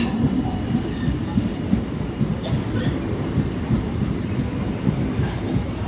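Local passenger train pulling out of the station: a steady low rumble with wheels clattering over the rail joints, and a sharp clack right at the start.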